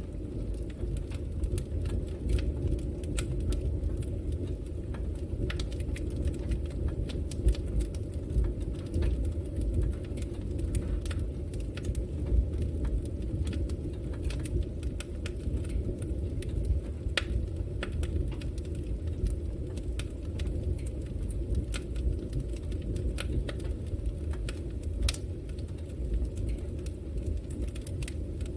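Wood fire burning in a fireplace: a steady low rumble of the flames with many irregular sharp crackles and pops from the burning wood.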